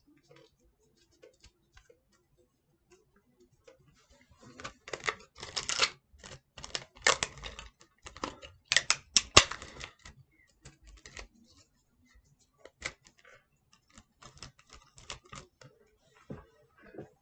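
Hands crinkling and crackling tape and a small crumpled ball as it is pressed onto a handmade puppet body. The sound is irregular, faint at first and loudest between about five and ten seconds in.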